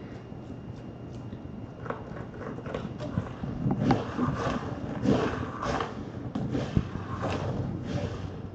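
Irregular rustling and scuffling with a few soft knocks, starting about two seconds in.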